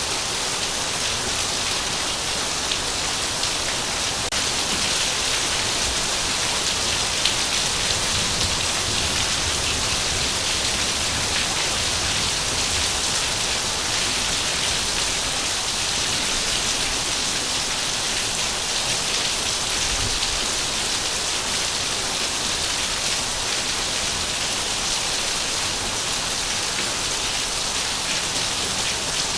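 Heavy rain falling steadily, a dense even hiss of many drops hitting a surface, with no lull or change in strength.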